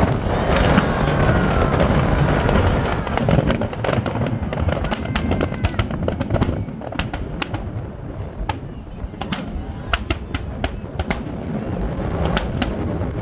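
Fireworks going off: a run of sharp crackling pops and bangs over a steady low rumble, with the pops coming thick and fast from about five seconds in.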